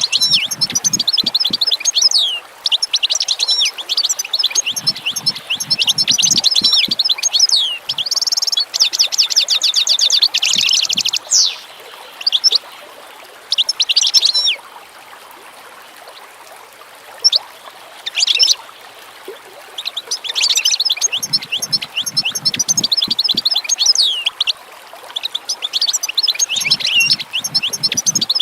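Songbirds singing in long runs of rapid chirps, broken by short pauses; about a third of the way in, one bird gives a fast, even trill lasting a couple of seconds.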